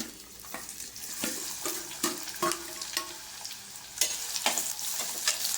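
Chopped shallots sizzling in hot oil in the bottom of a pressure cooker while being stirred, a spoon scraping and knocking against the metal pot again and again. The sizzle grows louder about a second in.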